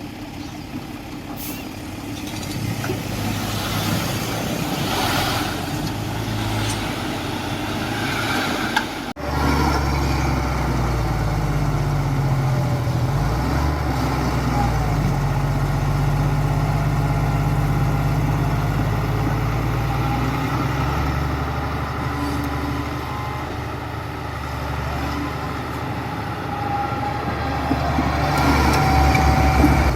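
Diesel engines of heavy earthmoving machinery running steadily as a low drone. About nine seconds in the sound breaks off abruptly and resumes as a stronger, steadier low engine drone.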